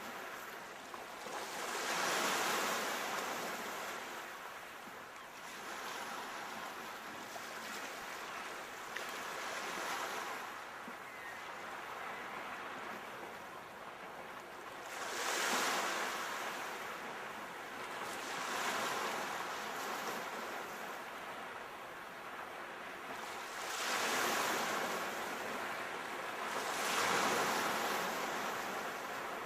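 Sea waves: a continuous wash of surf that swells and fades, with louder waves breaking about two seconds in, around the middle, and twice near the end.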